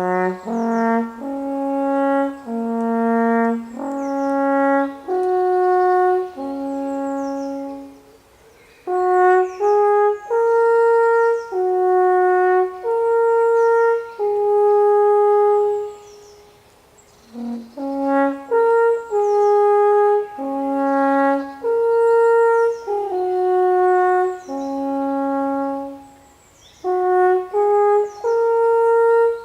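Alphorn playing a slow melody of long held notes, in phrases broken by short pauses for breath.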